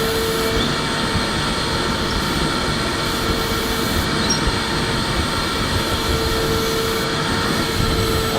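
Electric vacuum cleaner running steadily, a continuous whir of motor and rushing air with no change in speed.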